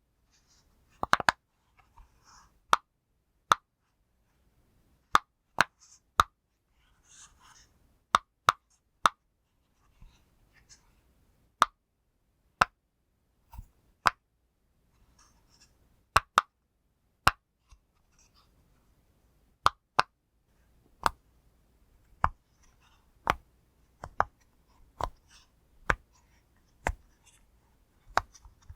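A pop fidget toy having its bubbles pressed one at a time, each giving a sharp pop. The pops come at an uneven pace of about one or two a second, with faint handling noise between them.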